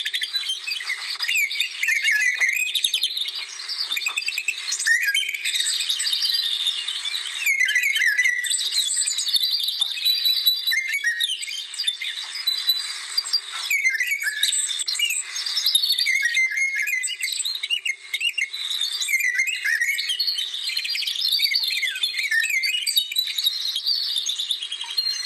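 Many songbirds singing and chirping at once, a dense tangle of quick overlapping high chirps, trills and whistles that carries on without a break.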